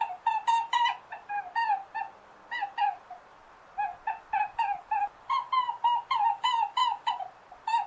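An animal's short, squeaky pitched calls repeated quickly, about four or five a second, in runs with a brief pause about three seconds in.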